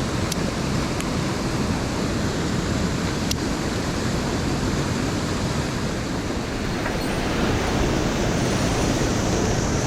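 Steady rushing of a mountain headwater stream, with a few faint clicks in the first few seconds, growing a little louder near the end.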